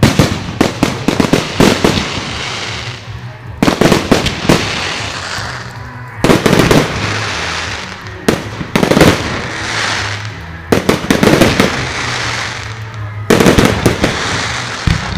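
Fireworks going off in repeated volleys: a tight cluster of sharp bangs about every two to three seconds, each followed by a fading crackling hiss.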